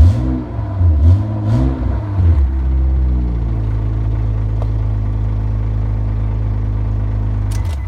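Honda Accord's engine revved in several quick blips during the first three seconds, then settling back to a steady idle. The engine sound stops just before the end.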